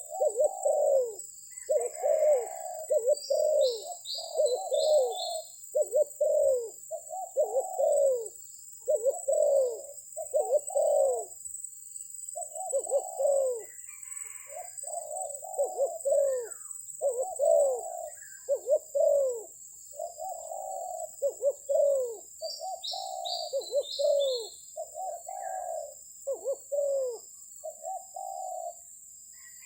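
Spotted dove cooing over and over in short, closely spaced phrases. A small bird gives a quick run of falling high chirps twice, a few seconds in and again past the middle, over a steady high-pitched whine.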